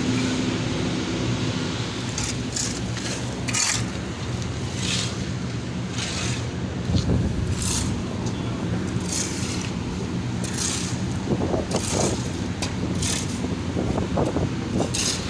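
A steady low engine-like hum runs throughout, with a dozen or so short, irregular scraping sounds on top.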